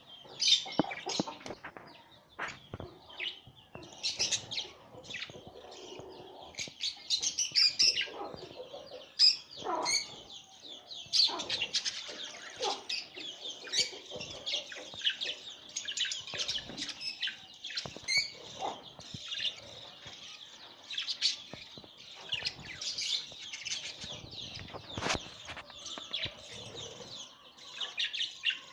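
Budgerigars chirping and chattering in quick, high calls that run together into a near-continuous twitter over the second half, with short sharp clicks and taps mixed in.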